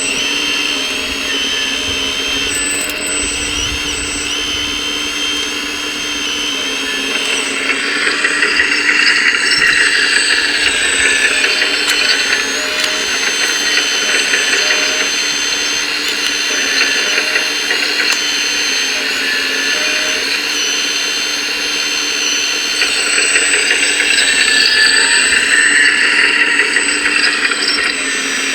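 Electric motor and hydraulic pump of a 1:14-scale RC construction machine whining steadily, with several high tones held, swelling louder twice as the hydraulics come under load, about a third of the way in and again near the end.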